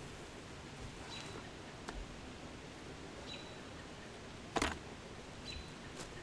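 Quiet woodland ambience with a few short, high bird chirps spread through, and a single sharp knock about three-quarters of the way through.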